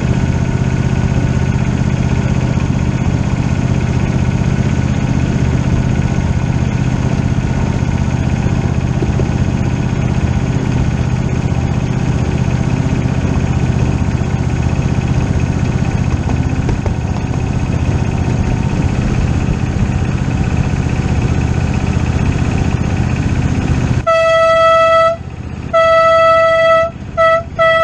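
A steady low mechanical rumble, then about four seconds from the end the live steam railroad's train whistle sounds one steady note in four blasts, long, long, short, long: the standard grade-crossing signal.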